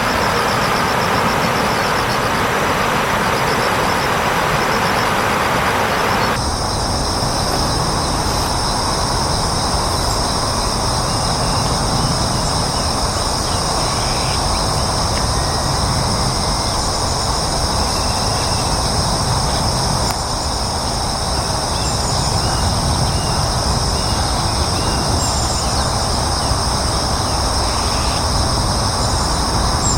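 Outdoor ambience: a steady, loud rushing noise with a high, pulsing trill. About six seconds in, the sound changes abruptly, leaving the rush under steady high-pitched tones and a few faint bird chirps.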